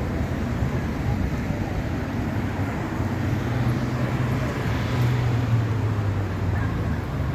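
A car engine running with a steady low rumble that grows louder for a few seconds midway.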